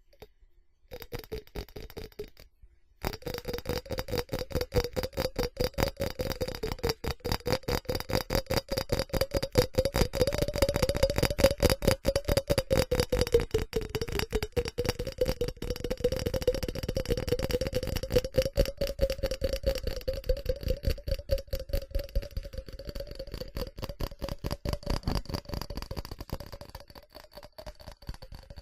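Rapid, steady tapping on a ceramic object, which rings with a clear tone under the taps. It starts about a second in, stops briefly, then keeps going fast and even.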